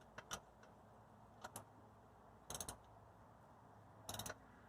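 Ratchet wrench clicking while working a bolt on a motorcycle: a few single clicks, then two short bursts of rapid clicking, about halfway through and near the end.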